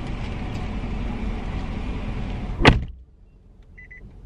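A car door slammed shut with one loud thud about two-thirds of the way in, cutting off a steady background hiss. It is followed by quiet and a short electronic beep near the end.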